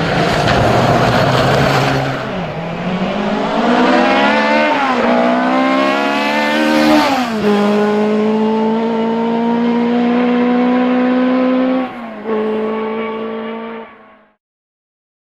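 Rally car engine accelerating hard through the gears. It opens with a loud rush of noise, then the pitch climbs, breaks for two quick upshifts, and holds high at full throttle with a brief lift near the end before the sound cuts off.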